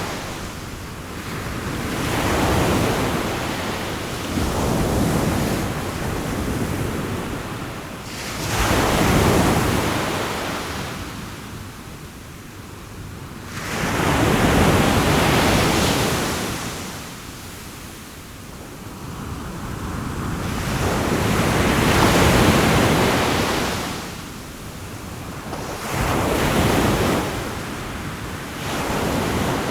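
Sea waves breaking and washing on a shore, coming in long surges a few seconds apart, each swelling and then falling away.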